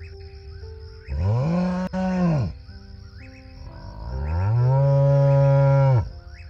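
Cow mooing twice: a shorter, higher moo about a second in, then a longer, lower one that rises, holds and falls away near the end, over soft background music.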